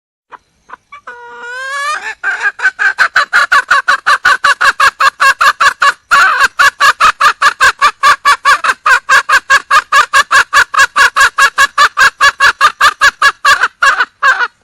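Junglefowl hen calling: a short rising call, then a long, fast run of loud clucks at about five a second, with one brief break midway. This is the wild hen's call for a mate.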